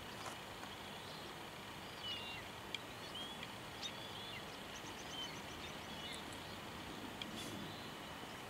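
Faint steady open-air background hiss with scattered short bird chirps, and a few light ticks.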